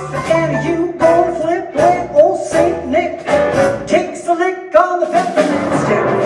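Symphony orchestra playing holiday music, with a voice singing the melody.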